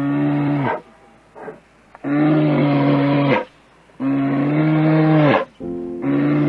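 Cow mooing: a run of low, steady calls, each over a second long and dropping in pitch at its end, repeated about every two seconds.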